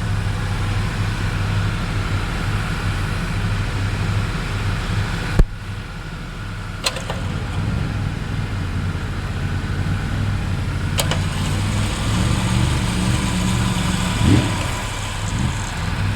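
Vehicle engine idling steadily, with three sharp clicks about five, seven and eleven seconds in.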